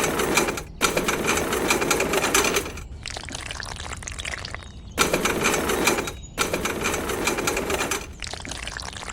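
A small electric motor mechanism running with a fast rattling buzz, switched or loaded in repeated bursts of one to two seconds with quieter stretches between.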